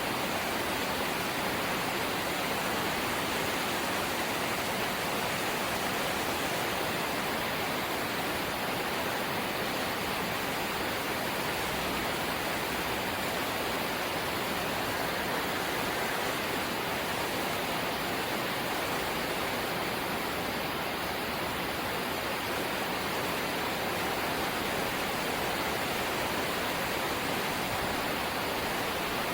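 Rain falling on a corrugated zinc roof, a steady, even hiss that holds without let-up.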